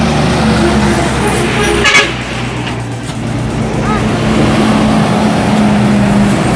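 Heavy truck running steadily on the road, with a sharp click about two seconds in.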